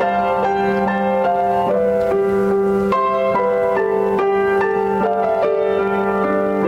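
Slow instrumental keyboard music: a melody of changing notes over long-held low notes.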